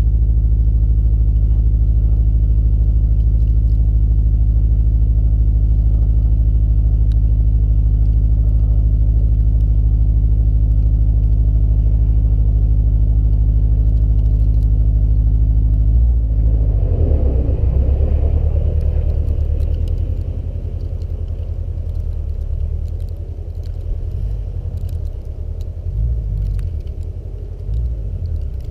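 2020 Subaru WRX STI's turbocharged 2.5-litre flat-four, Stage 3 tuned, idling steadily on a cold start. About sixteen seconds in the car pulls away, and the engine sound fades as it drives off.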